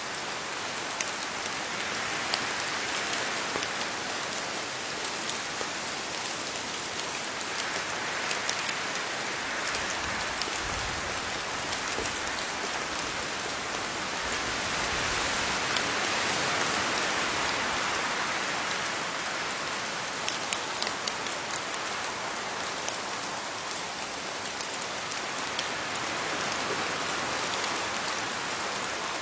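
Steady rain falling on leaves, a continuous hiss of drops with many small individual drop taps, swelling slightly and easing again in slow waves.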